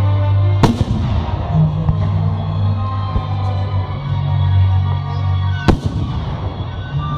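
Two loud firework bangs about five seconds apart, each trailing off in a crackling echo, over music with long sustained low notes.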